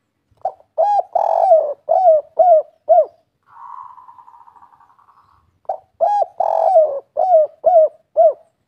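Spotted dove (derkuku) singing its 'kuk 3' song: two cooing phrases of about six or seven notes each, with a softer buzzing sound of about two seconds between them.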